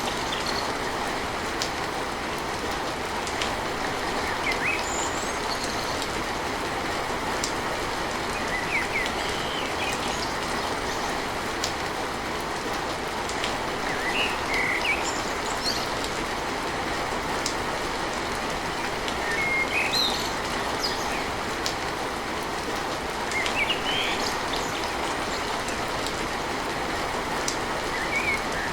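Steady heavy rain drumming on a tin roof, with small sharp drop hits. Birds chirp briefly now and then over the rain.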